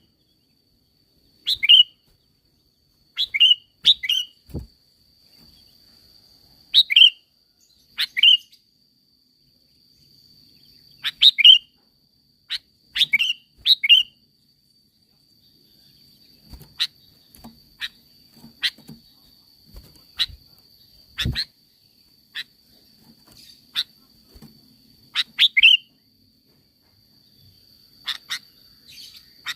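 Sooty-headed bulbul calling in short, sharp chirps that sweep downward, often in quick pairs, every second or two. In the second half the chirps thin out into fainter clicks, over a faint steady high-pitched hiss.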